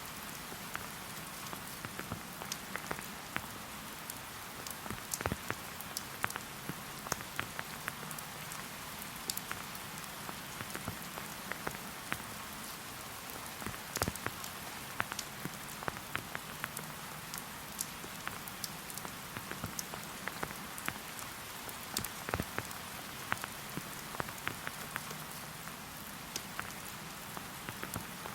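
Steady rain: an even hiss with many separate drops ticking close by, several a second.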